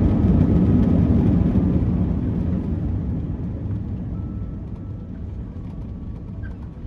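Airbus A330-300 jet noise heard from the cabin, a loud, steady low rumble that fades away from about two seconds in. Faint music starts near the end.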